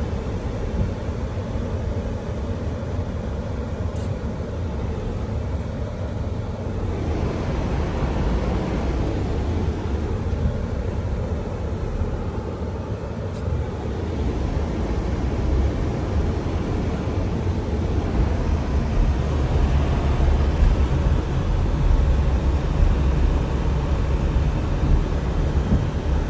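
A car driving along, with a steady low rumble of road and engine noise that grows a little louder in the second half.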